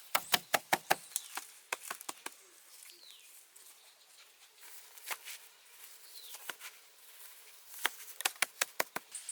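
Rapid sharp taps or knocks in two runs: about a dozen in the first two seconds, a quieter gap, then another quick run near the end.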